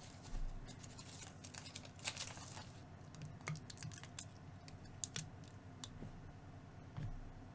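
Faint, scattered small clicks and light crinkling of aluminium tape being handled and pressed down by hand.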